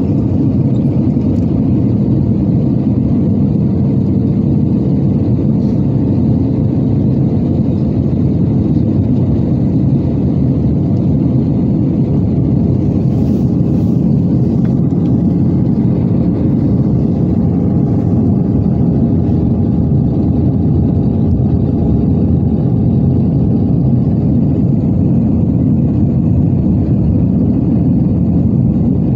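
Steady rumble of an Airbus A320's engines and airflow heard inside the passenger cabin, with faint steady hums running under the noise.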